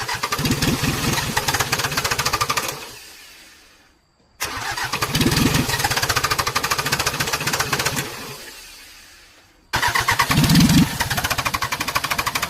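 Old tractor's single-cylinder diesel engine turned over three times. Each time it starts suddenly, runs with a fast chugging rhythm for about three seconds, then winds down and dies away without keeping running.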